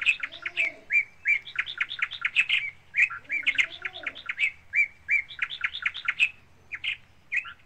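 Small birds chirping in quick runs of short, high notes, with brief gaps between the runs.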